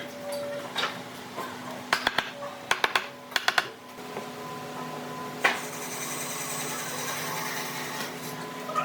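Woodworking tools in use: sharp knocks and taps in quick groups, then a steady whirring hiss with a hum from about halfway in.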